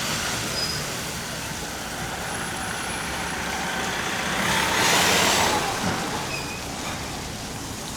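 Street traffic heard from a moving bicycle: steady rush of wind and tyre noise, with a motor vehicle passing close by, loudest from about four and a half to six seconds in.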